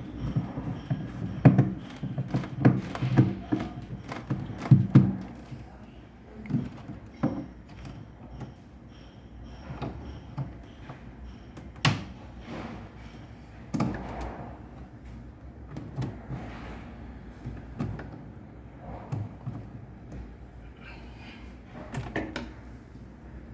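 Irregular knocks, clicks and thuds of refrigerator parts and tools being handled during a repair, a busy run of sharp knocks in the first five seconds, then scattered single knocks over a low hum.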